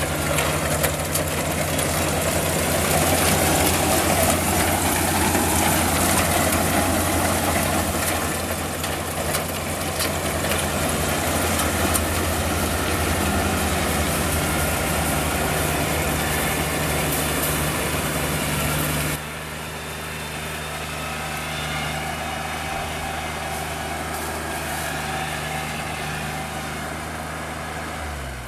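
Combine harvester's diesel engine running steadily, with a dense mechanical hiss over the engine note. About two-thirds of the way through the sound drops suddenly and becomes quieter, and at the very end the engine note falls.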